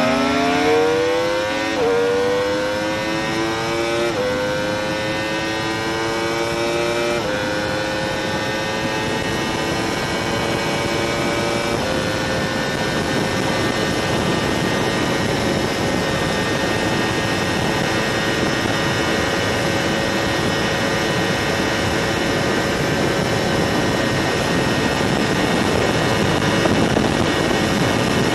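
Motorcycle engine accelerating hard through the gears. Its pitch climbs and drops back with each of about four upshifts in the first twelve seconds, then holds steady at high speed with wind noise.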